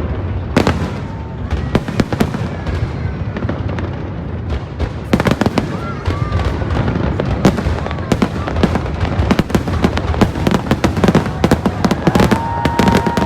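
Aerial fireworks bursting over a constant low rumble: scattered bangs at first, then from about five seconds in a dense, rapid run of overlapping bursts and crackles.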